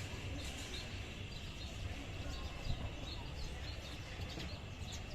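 Small birds chirping repeatedly, short high calls scattered throughout, over a low steady outdoor rumble.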